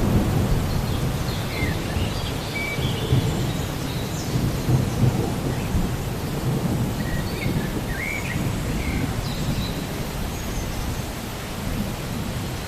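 Steady rain with a low rolling rumble of thunder that eases after the start. A few short high chirps are scattered through.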